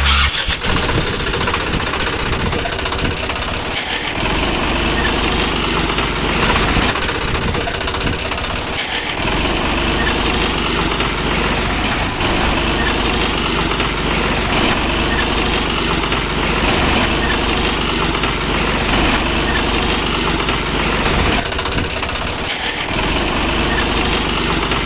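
Miniature DIY tractor's engine sound running steadily without a break.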